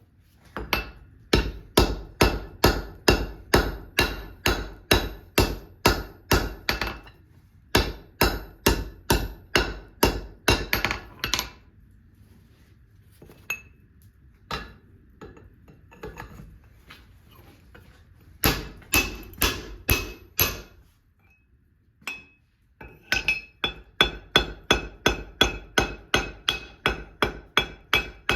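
Forging hammer striking a hot steel bar on an anvil, in runs of steady blows about three a second, with a ringing after each strike. Between runs there are a few light scattered taps.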